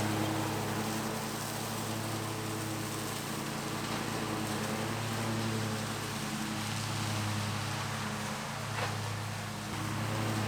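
Bad Boy Maverick zero-turn mower running steadily while clearing trail, its engine a steady drone over a broad hiss.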